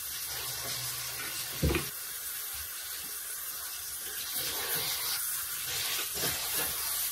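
Beef chunks, mushrooms and onions sizzling steadily as they sear in a hot cast-iron skillet, stirred with a wooden spatula. A brief low sound stands out about a second and a half in.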